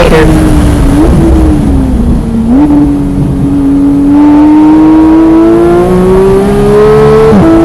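Porsche 991.1 GT3's flat-six engine heard from onboard at speed: its pitch falls with two short blips in the first couple of seconds, as on braking and downshifting, then climbs steadily under throttle for about five seconds before an upshift drops it near the end.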